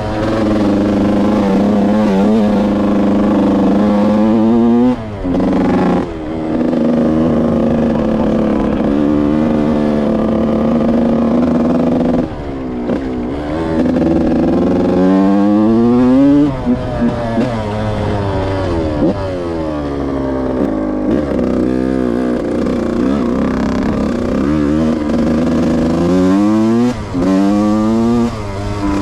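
Yamaha YZ125 two-stroke single-cylinder dirt bike engine under riding load, its pitch climbing and then dropping away several times as the throttle is opened and shut.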